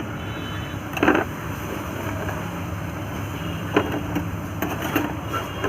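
A few short knocks and clunks from engine parts being handled during a piston refit, the loudest about a second in, over a steady low hum.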